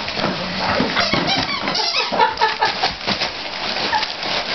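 Dense crackling and tearing of wrapping paper as a kelpie rips open a present, with a few short high squeaks among it.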